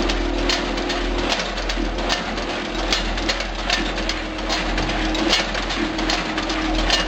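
Multihead weigher running: a mid-pitched buzz that switches on and off every second or two over a steady low hum, with frequent sharp clicks and rattles from gates and falling snack product.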